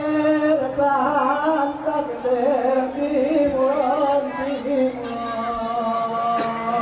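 Saman dance singing: a high, drawn-out vocal line that wavers in pitch, then settles onto a steady held note in the last couple of seconds.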